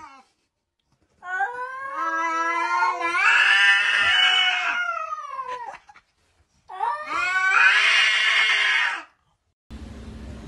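A cat yowling: two long drawn-out calls, a few seconds each, rising and then falling in pitch and turning harsh in the middle.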